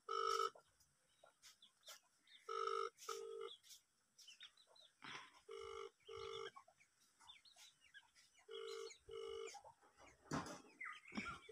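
A bird calling a pair of short, steady notes over and over, about every three seconds, with faint chirps of other small birds in between.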